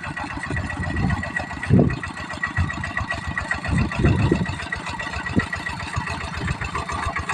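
Kubota diesel engine of a tractor tilling a field, running steadily with rapid, even firing pulses and a few louder low surges about two and four seconds in.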